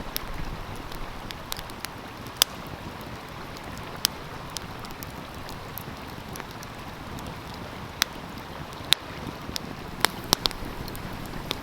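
Wood fire crackling, with sharp pops every second or two and a cluster of them near the end, over the steady rush of a stream.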